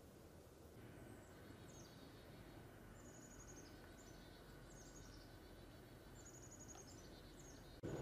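Faint songbird calls over a quiet outdoor hiss: several high chirps sliding down in pitch and a couple of quick trills of repeated notes. Just before the end the background jumps suddenly to a louder low rumble.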